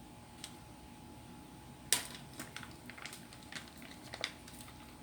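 Light clicks and taps from handling a ketchup container while putting ketchup on pizza slices, with one sharper click about two seconds in followed by a run of smaller ones.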